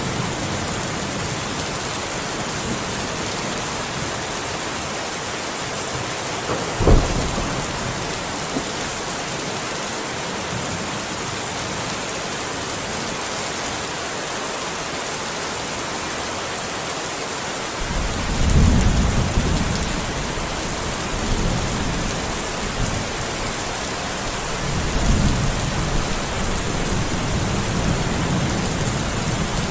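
Steady rain falling, with thunder: a sharp thunderclap about a quarter of the way in, then low rolling rumbles past the middle and again near the end.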